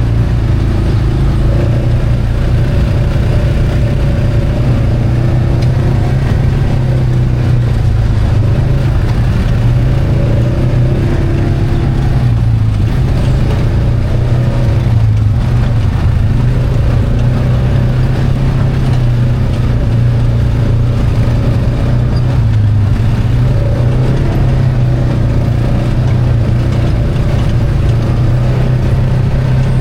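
ATV engine running steadily on the trail, loud, its pitch shifting a little as the throttle changes.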